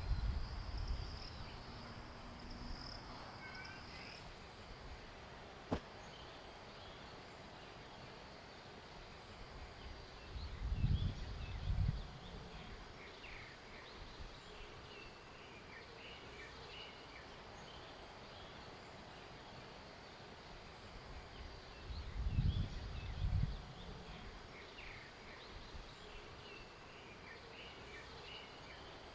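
Birds chirping in short scattered calls over a faint steady background. There are two brief low rumbles, about eleven and twenty-two seconds in, and a single sharp click early on.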